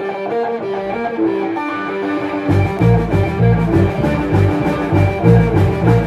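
Live rock band music. A guitar picks a melodic line alone, then the drum kit and bass come in with a steady beat about two and a half seconds in.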